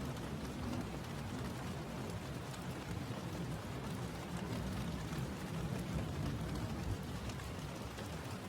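Steady rain falling, a dense even hiss with a low rumble and fine drop ticks.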